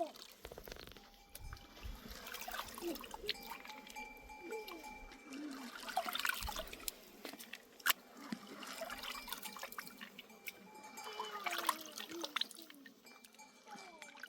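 Sounds of a flock of livestock: scattered short animal calls with occasional clinks and clicks.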